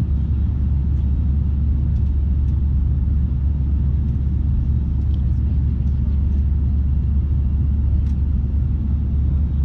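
Steady low rumble inside the passenger cabin of an Airbus A321-211 airliner, with a few faint ticks.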